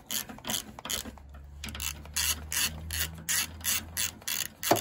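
Socket ratchet clicking in quick strokes as the motorcycle fuel tank's 10 mm bolts are tightened. Near the end comes one sharp little bang: the ratchet's rubber handle knocking against the frame.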